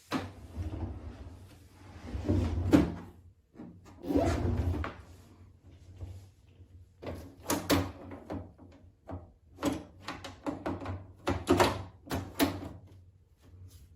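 Handling noises: irregular bumps and rustles, then a run of short sharp clicks and knocks in the second half.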